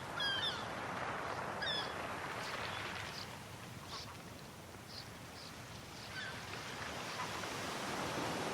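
Sea waves washing on the shore as a steady rush, with a few bird calls bending in pitch at the start and short high chirps in the middle.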